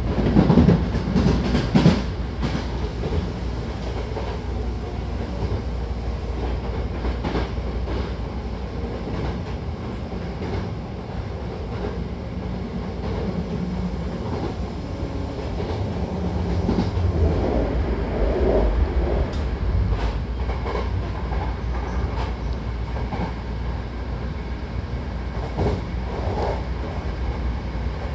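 Inside a Hankyu Takarazuka Line train car running at speed: a steady low rumble of wheels on rail with scattered clatter, louder for the first two seconds.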